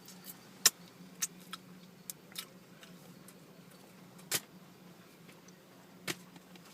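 A handful of sharp, scattered clicks and small taps, the loudest about a second in, over a faint steady hum.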